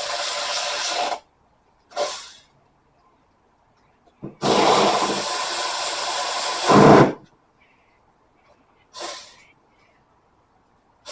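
Aerosol can of electrical contact cleaner sprayed in hissing bursts into an electrical plug connector to flush out metal bits: a spray of about a second, a short puff, a long spray of about three seconds, then another short puff.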